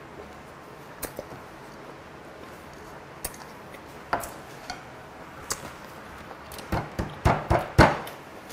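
Close-miked chewing of steamed squid, with scattered light clicks of chopsticks against a dish and a run of louder, wet mouth sounds near the end.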